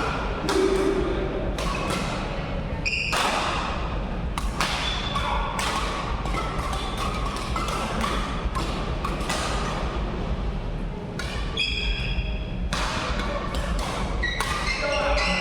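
Badminton doubles rally: rackets striking the shuttlecock again and again, with footwork thuds and a few short squeaks on the court floor.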